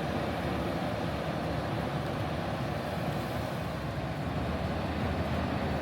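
Truck engine running steadily under very light throttle.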